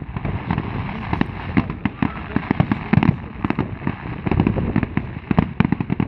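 Fireworks display going off: a dense run of rapid bangs and crackles over a continuous low rumble of bursting shells.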